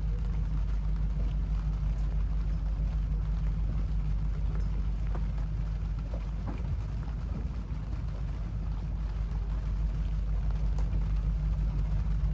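Rain falling during a storm, heard as an even hiss with scattered sharp drop ticks, over a steady low rumble.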